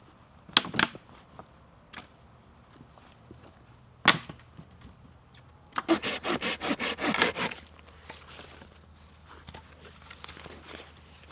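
Working wood: a few sharp knocks, then a quick run of about a dozen rasping strokes lasting nearly two seconds.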